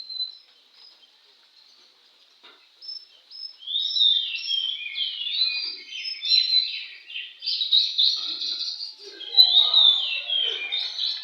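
Oriental magpie-robin (kacer) singing a fast, varied song of sliding whistles and chirps, starting after a few near-quiet seconds and running on continuously.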